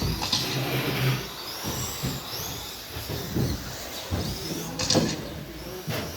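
13.5T electric RC stadium trucks racing on a carpet track: high-pitched motor whines rising and falling as they accelerate and brake, over a mechanical hiss. Several sharp knocks come near the start and again near the end.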